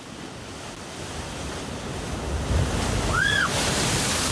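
Rushing wind and water noise, building steadily louder, with one short high chirp about three seconds in.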